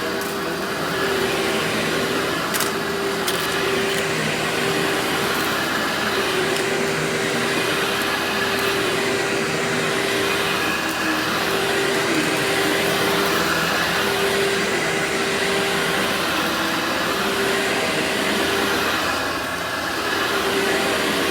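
Workhorse vacuum cleaner running steadily, its motor giving a constant whine over the rush of suction air.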